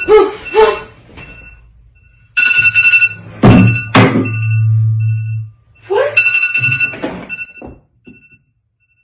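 Loud electronic ringing tone sounding in repeated bursts, with sudden thumps and falling whooshes over it.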